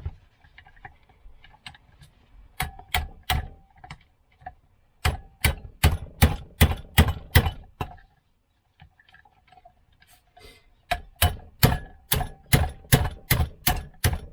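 Hammer tapping on a socket held against a Mobylette AV7 moped engine's piston pin, driving the pin out of the piston. The strikes come in runs at about three a second, a few early on, a long run in the middle and a faster run near the end, with a pause of several seconds between.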